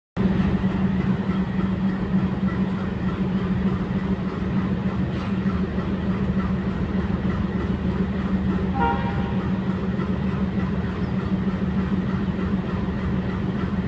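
A train engine running steadily, a low even hum over rumbling noise, with a brief higher-pitched tone about nine seconds in.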